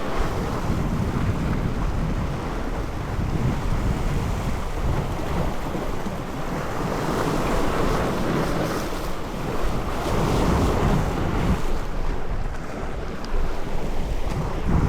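Sea waves washing and surging, swelling louder through the middle, with wind rumbling on the microphone.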